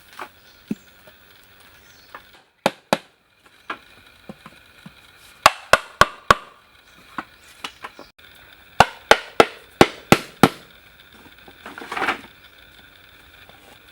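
Hammer blows on wood during building work, coming in quick runs of several sharp strikes about three a second, with a few single knocks between. A short scraping burst comes near the end.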